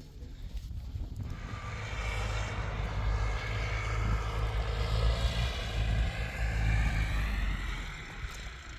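An engine passing by: a low rumble swells over several seconds, peaks in the middle, and fades near the end.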